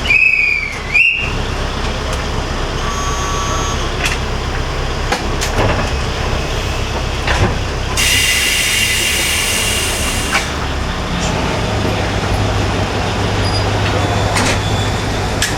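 KiHa 20 diesel railcar running, heard from inside the cab: the low drone of its DMH17 diesel engine under steady rail noise. In the first second a high tone falls and then rises again. About eight seconds in, a loud hiss lasts about two seconds, and later the engine settles into a steady low hum.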